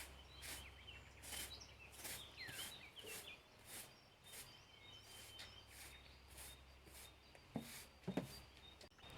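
Quiet outdoor ambience: small birds chirping over a faint high-pitched hiss that pulses about twice a second, with two soft knocks near the end.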